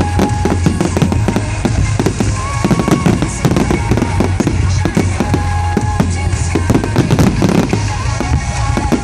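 Firework display: a rapid, continuous barrage of bangs and crackles, many bursts in quick succession, with music playing underneath.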